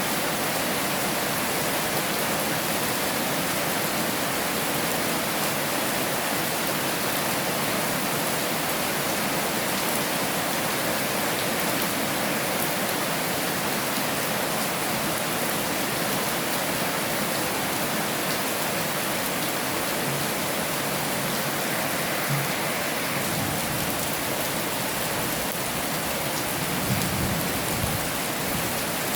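Heavy rain falling steadily, an even hiss with no let-up. Near the end a few brief low thumps sound under it.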